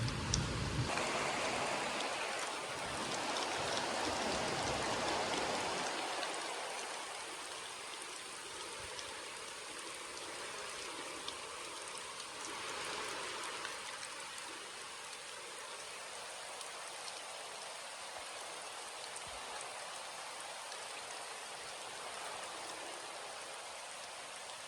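Steady rain falling, an even hiss of many drops. A low rumble of thunder fades out in the first second. The rain is louder for the first few seconds, then settles to a steady level.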